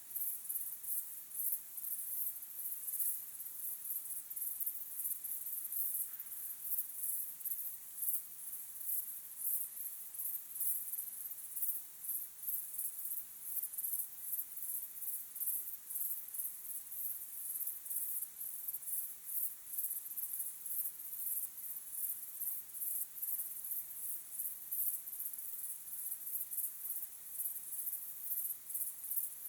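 Crickets chirping in a continuous high-pitched chorus, pulsing rapidly and steadily.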